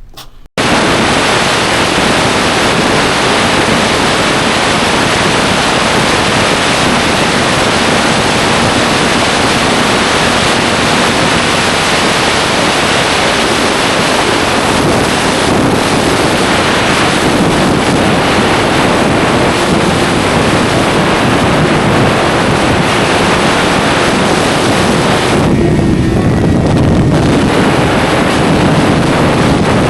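Loud, steady wind rushing over the microphone, as heard from a motorcycle at riding speed. It starts abruptly about half a second in and eases briefly in its upper hiss near the end.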